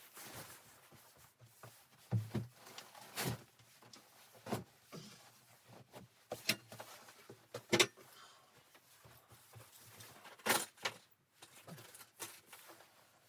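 Irregular knocks and clicks, about a dozen sharp ones spread unevenly, the loudest about eight and ten and a half seconds in.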